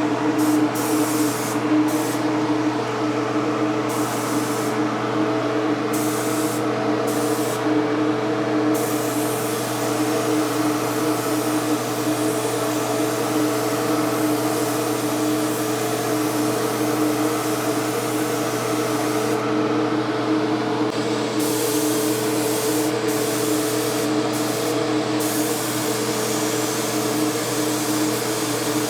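Mini paint spray gun hissing as it sprays, the spray switching on and off in short bursts during the first several seconds, then running as one long pass before a few more short bursts. A steady motor hum runs underneath.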